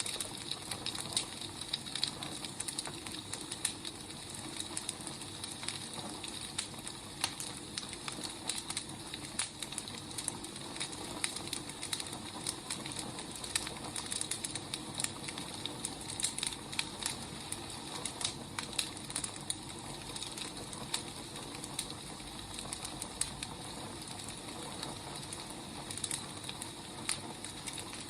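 Wood fire burning, a steady hiss with many irregular crackles and pops of burning firewood.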